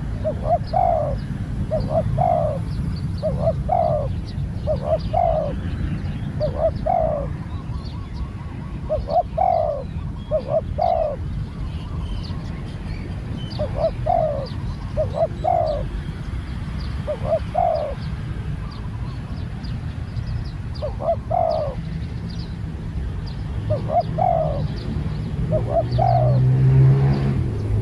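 Spotted dove cooing over and over in short two-note phrases every second or two, over a steady low rumble. A low hum comes in near the end.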